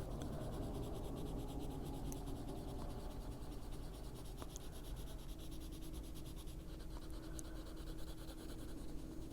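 Prismacolor coloured pencil shading across a colouring-book page: a steady scratching of the lead on paper.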